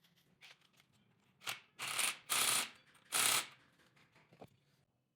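Four short bursts of hissing noise in quick succession, from about one and a half to three and a half seconds in, over a few faint clicks and a faint low hum.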